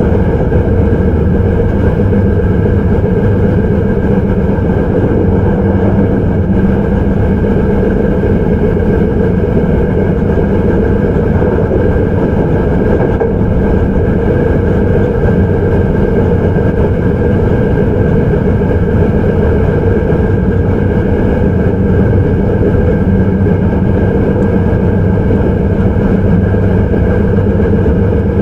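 Hankyu 9300 series electric train running at a steady speed, heard from inside the car: a steady, loud rumble of wheels on rail and running gear.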